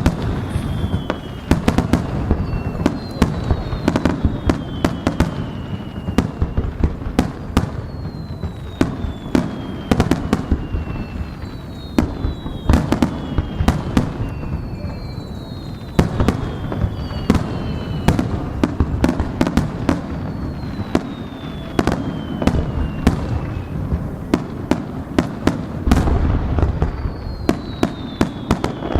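Fireworks display: a dense run of booms and sharp cracks, with high whistles that fall in pitch about every two seconds.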